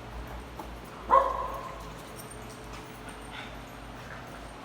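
A small dog barks once, about a second in, a short pitched bark that fades quickly.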